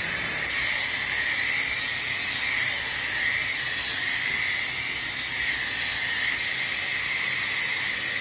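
Dyson hair dryer blowing steadily: a loud airy rush with a high, even whine.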